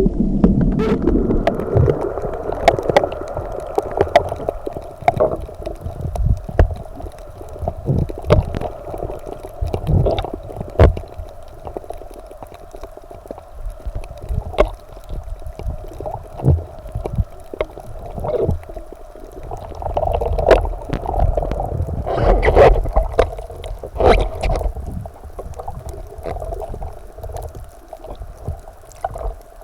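Water gurgling and sloshing around a swimmer's camera, with many scattered sharp clicks and louder stretches of water noise near the start and again about twenty seconds in.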